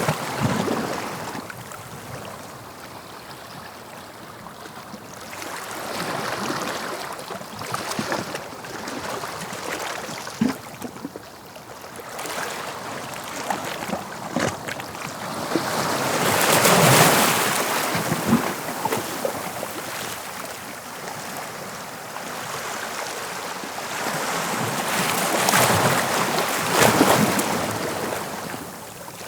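Sea waves breaking and washing on the shore, swelling and fading every several seconds, with the biggest surges about halfway through and near the end, and a light crackle of water running back.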